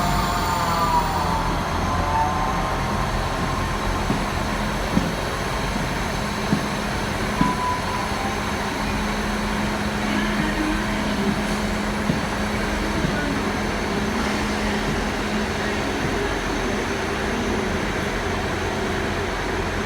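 Railway station ambience with a diesel train running at the platform: a falling whine in the first couple of seconds, then a steady low engine hum with a few scattered knocks.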